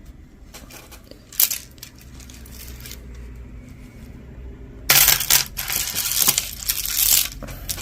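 Loose costume jewelry clinking and rattling as hands rummage through a box of it: a few single clicks, then a dense clatter of small pieces knocking together from about five seconds in until near the end.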